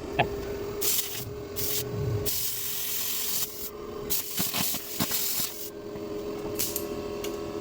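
Plasma cutter cutting a steel patch piece, its air and arc hissing in about five separate bursts with clicks between them. A steady hum from the running air compressor sits underneath.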